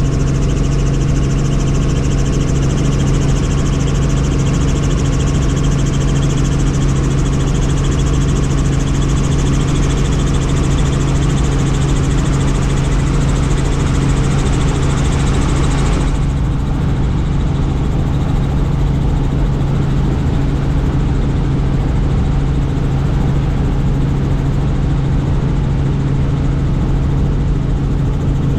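Helicopter turbine and rotor noise, a loud steady drone with a strong low hum. About sixteen seconds in, the higher part of the sound drops away abruptly, leaving it duller.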